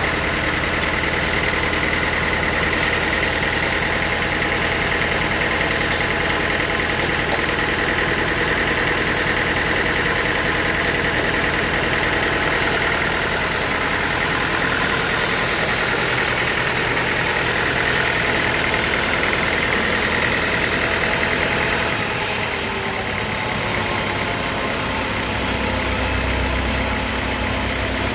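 Sawmill machinery running steadily with an engine-like drone and a high whine; the whine cuts off about three quarters of the way through and the machine sound shifts.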